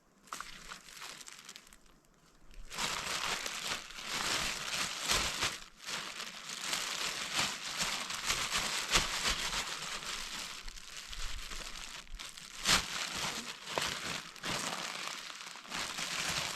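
Dense rustling and crinkling with many scattered clicks and crackles, starting about three seconds in after a quieter opening.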